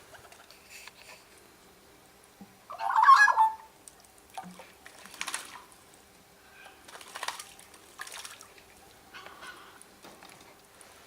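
A bird gives one loud, harsh squawk about three seconds in, followed by several short splashes of a bird bathing in a garden birdbath.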